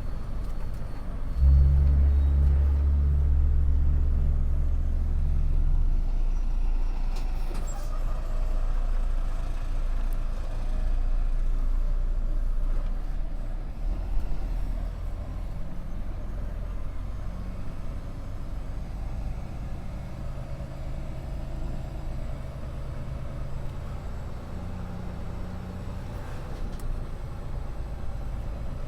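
Heavy truck's diesel engine running, a deep steady hum that comes in strongly about a second and a half in and eases off after about six seconds into a lower rumble.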